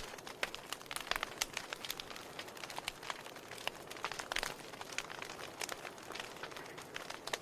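Wood fire burning in a fireplace: irregular sharp crackles and pops over a soft steady hiss of flame.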